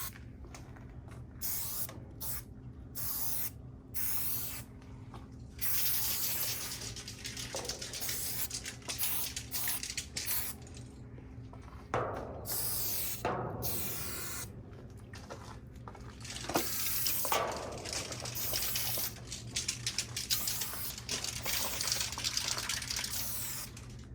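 Aerosol spray paint cans hissing in repeated stop-start bursts, some short and some held for a few seconds, over a steady low hum.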